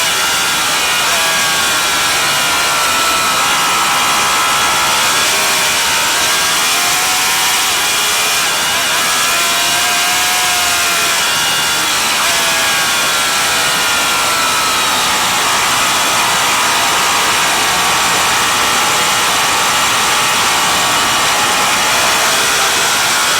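Racing motorcycle engine running hard, its note rising and falling repeatedly as the revs change, over a constant rushing noise.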